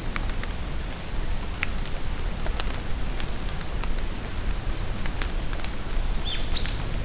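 Steady rain in a forest with scattered drips, and birds giving short high chirps. Near the end, one louder bird call rises quickly in pitch.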